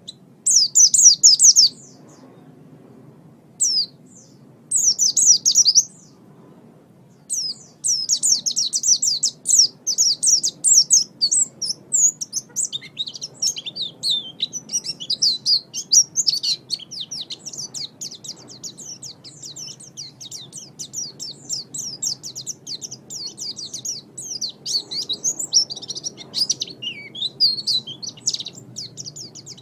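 A pleci (white-eye) singing a fast, high twittering song. It comes in short bursts over the first few seconds, then runs on as near-continuous rapid chirping from about seven seconds in.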